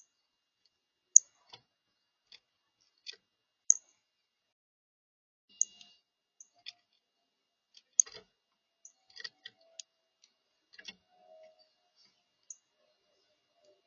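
Birds at a feeder making scattered, irregular sharp high ticks and clicks, about a dozen, with brief silences between them.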